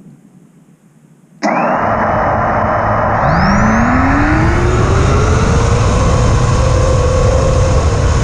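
FPV racing quad's four brushless motors (T-motor F40 III 2400kv) and 5-inch props spinning up abruptly about a second in, then a loud steady whine whose pitch slowly rises as the throttle increases, over heavy low wind and prop-wash rumble.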